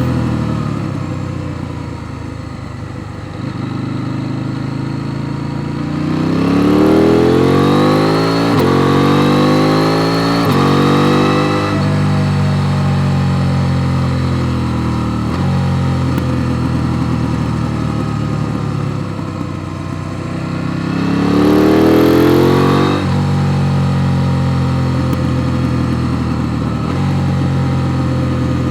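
KTM 890 Duke R parallel-twin engine under riding load. The revs climb hard through several quick upshifts about a quarter of the way in, then the engine runs steadily. Near the end it pulls hard again and the revs drop off sharply.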